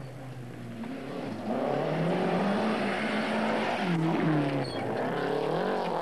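Rally car engine revving hard as the car passes at close range on a gravel stage: the pitch climbs, drops sharply about four seconds in, then climbs and drops again.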